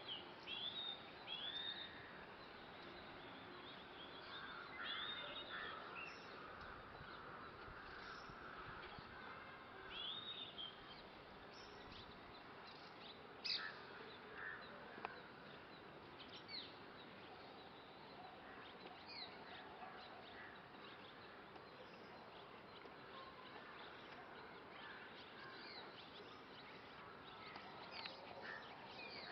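Red-rumped swallows giving short, scattered chirps and twittering calls, faint over steady background noise.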